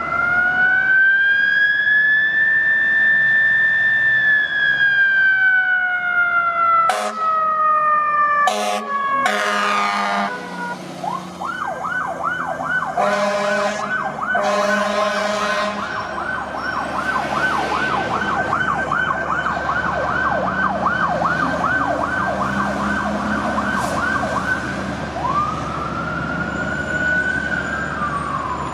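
Emergency vehicle siren: a slow wail rising and falling, broken by a few brief sharp blasts about seven to ten seconds in, then a fast yelp of about three cycles a second, and a single wail again near the end.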